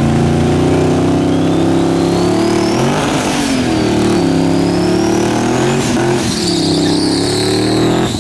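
Twin-turbo 5.3L V8 in a 1967 Chevy C20 pulling hard at full throttle, with a high turbo whine climbing with the revs. The engine note drops at two upshifts, about three and six seconds in, then climbs again.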